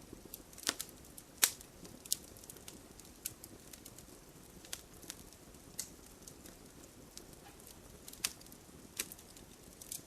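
Wood fire burning in a fireplace, crackling: sharp irregular pops over a low steady hiss, the loudest about one and a half seconds in.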